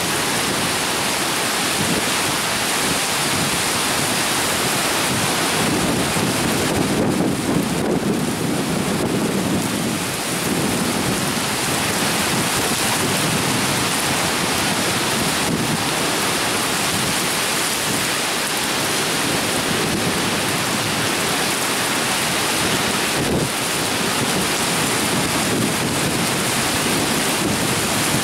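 Torrential thunderstorm rain pouring steadily, with a low rumble of thunder swelling and fading about six to ten seconds in.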